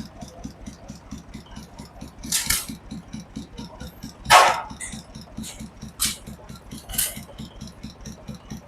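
Stationary hit-and-miss gas engines running: a steady low chugging of about five beats a second, broken by four loud sharp exhaust bangs at irregular intervals as an engine fires.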